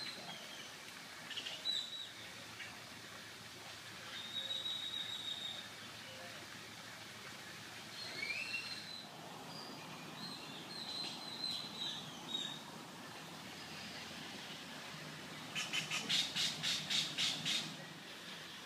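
Birds calling over a steady outdoor hiss: thin, high whistled notes, some held and some sliding up or down, every few seconds. Near the end comes a fast run of about ten sharp, evenly spaced notes, the loudest sound.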